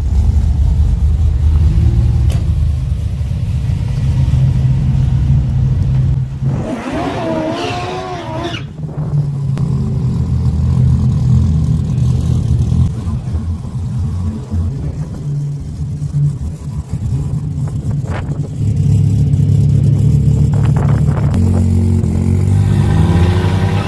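Turbocharged 2JZ-GTE straight-six in a Holden VH Commodore wagon rumbling at low revs as the car rolls up to the drag strip start line. It gives a short rev that rises and falls about seven seconds in, and the revs climb again near the end.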